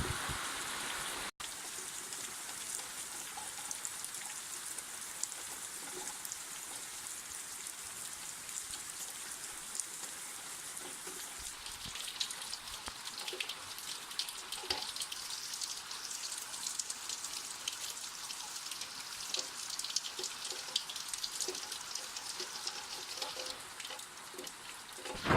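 Steady summer rain falling, with many separate drops ticking on surfaces, somewhat denser in the second half. The sound cuts out for a moment about a second in.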